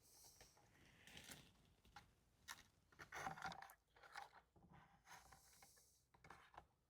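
Faint scattered clicks and scrapes of tools and plastic parts being handled while a Stihl MS180 chainsaw is taken apart, busiest about halfway through.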